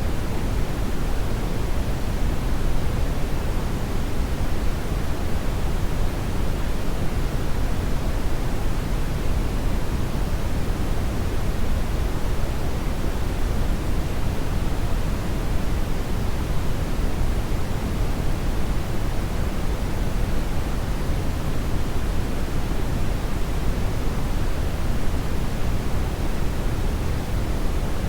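Hair dryer blowing steadily: an even, unchanging rushing noise, heaviest in the low end.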